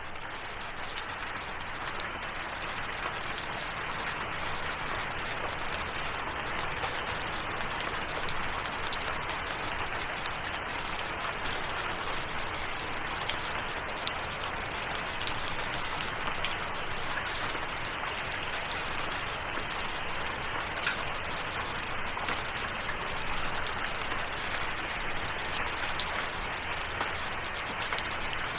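Steady rain falling, an even hiss with many small drop patters and ticks scattered through it.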